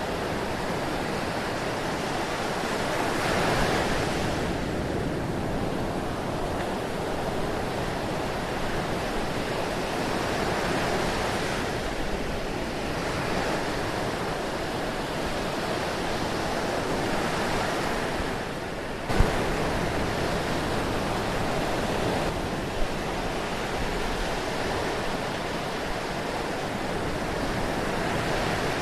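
Ocean surf washing ashore, a steady rush of water that swells and eases every several seconds. A little past the middle the sound dips briefly and comes back with a sharp click.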